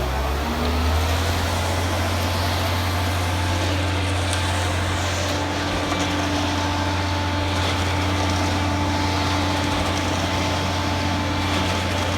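Engine running steadily at a constant pitch, having just revved up, with a higher steady whine joining about two seconds in and a few light knocks over it.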